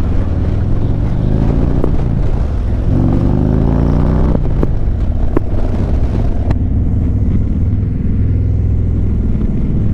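Harley-Davidson V-twin engine idling with a steady low rumble. Twice, another engine nearby rises in pitch as a vehicle accelerates, the second time cutting off sharply.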